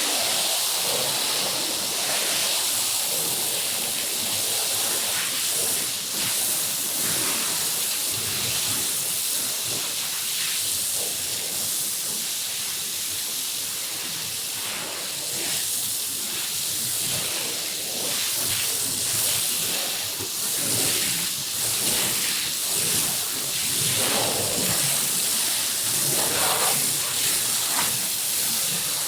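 Water spraying hard onto a soaked carpet: a steady hiss that swells and eases unevenly.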